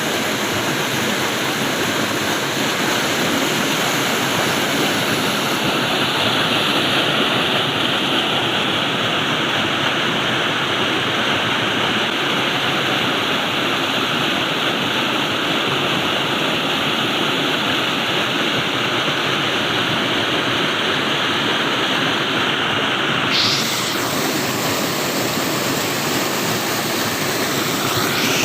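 Flowing water rushing steadily, like a stream or small waterfall, with a sudden slight change in its tone near the end.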